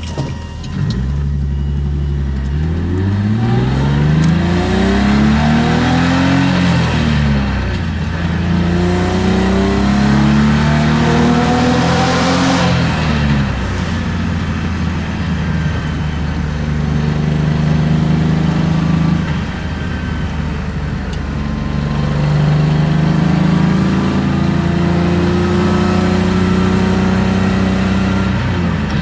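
BMW M50B25 2.5-litre inline-six in an E36 325i with aftermarket headers and sport exhaust, heard from inside the cabin, revving up under acceleration with two upshifts where the pitch drops back. It then settles into a steady cruise with a brief ease-off and pull again.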